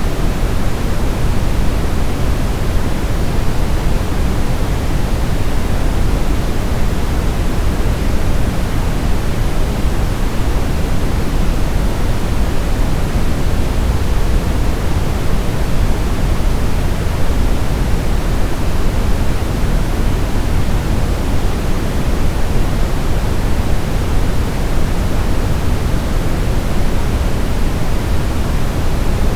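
Steady, unchanging synthetic sleep noise: a constant hiss that is heavier in the bass than in the treble, like pink noise.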